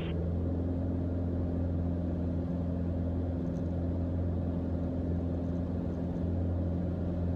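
Single-engine Mooney M20J's four-cylinder Lycoming engine and propeller droning steadily in flight, heard from the cockpit.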